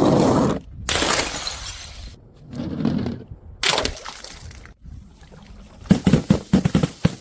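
Glass bottles shattering in several separate crashes, each dying away quickly, with a quick run of sharp clinks near the end.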